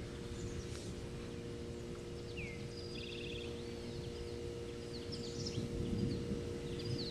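Small birds chirping, with short rising and falling calls and a brief fast trill, over a steady low hum and a low rumble of background noise.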